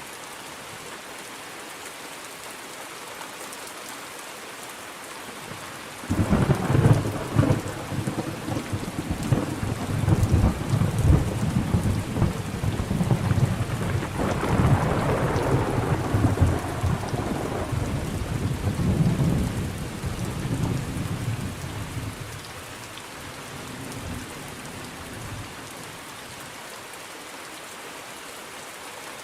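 Steady rain falling, with a long peal of thunder that cracks in suddenly about six seconds in, rumbles and swells for some fifteen seconds, then dies away, leaving the rain.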